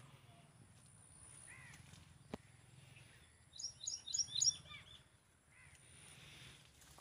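Small birds calling: a few short chirps, then a quick run of high repeated chirps about halfway through, over a faint steady low hum. A single sharp click comes about two seconds in.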